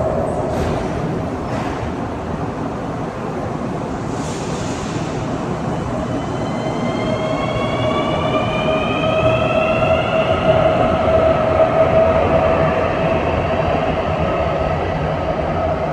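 Cabin running noise of a CAF AS-14 metro train. From about a third of the way in, a whine from the traction motors rises in pitch as the train picks up speed, then levels off.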